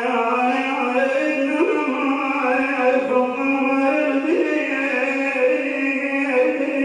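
A man's voice chanting long, held melodic notes with a few short slides in pitch, in the style of an Iraqi religious lament (nasheed).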